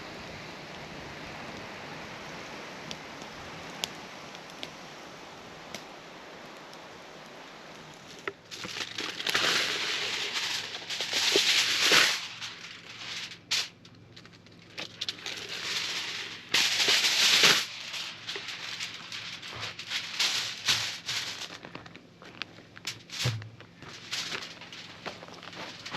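Wood fire crackling, with scattered sharp pops, and from about a third of the way in, repeated louder surges of rushing noise.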